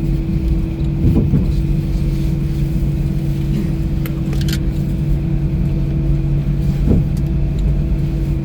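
Cabin noise of an Airbus A319 taxiing on the ground: a steady low rumble with a constant hum from the running engines. A few brief rattles or clicks come through, about a second in, around four seconds in and near seven seconds.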